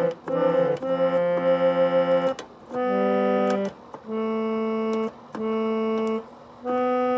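Keyboard backing music: sustained synthesized chords played in blocks about a second long, with short breaks between them.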